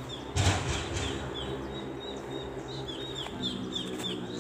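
A bird calling with a run of short, high, downward-sliding chirps, repeated about twice a second and coming closer together in the second half, over a steady low hum. About half a second in there is a brief loud rustle or thump.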